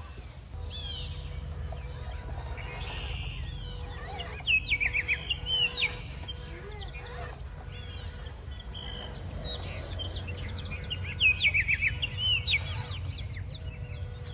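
Birds chirping outdoors in two bursts of quick, high calls, about four seconds in and again about eleven seconds in, over a steady low rumble.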